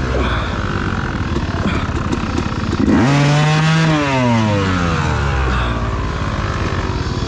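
Dirt bike engine idling with a steady low pulse, then revved hard about three seconds in, its pitch climbing sharply and then falling away over the next two seconds.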